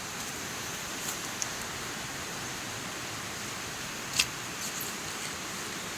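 Steady hiss of rain, with a few faint light snaps or rustles, the clearest about four seconds in.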